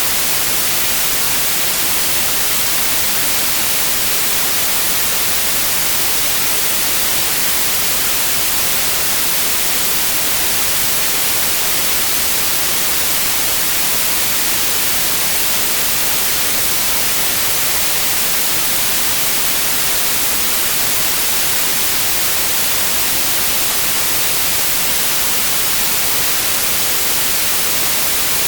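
Steady, loud white noise: an even hiss that does not change, strongest in the treble.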